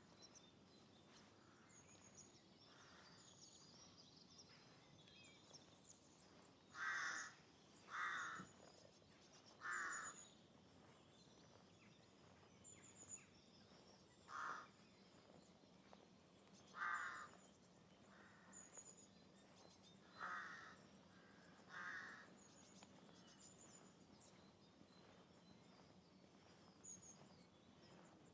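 A crow cawing seven times, harsh calls spaced irregularly one to four seconds apart, over brief high chirps of small birds and a steady faint rush of running water.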